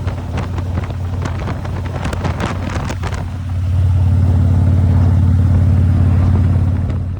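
Harley-Davidson Road Glide Ultra's V-twin engine running steadily after two years of sitting, with a few sharp clicks over it in the first three seconds; it gets louder about three and a half seconds in and holds there.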